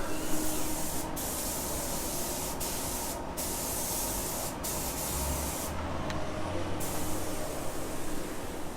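Automotive paint spray gun hissing in passes, cutting off briefly several times, with one longer pause about six seconds in, over a steady low hum.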